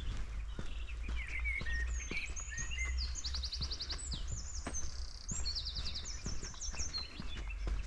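Small forest songbirds calling: scattered short high calls, with three fast trills of rapidly repeated notes in the middle. Under them run footsteps on the forest floor, a soft knock every fraction of a second.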